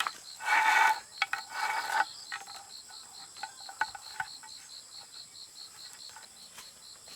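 An insect chirping in an even high pulse, about four chirps a second, over a steady thin high whine. Near the start, two loud harsh rasping strokes about a second apart, then scattered faint knocks.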